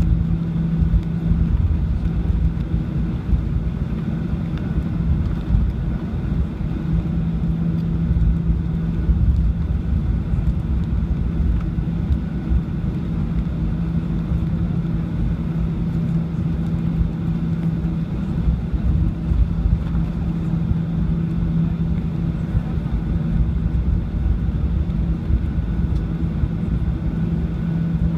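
Cabin noise inside a Boeing 737-800 on the ground after landing: a steady hum with a constant low tone over a fluctuating low rumble.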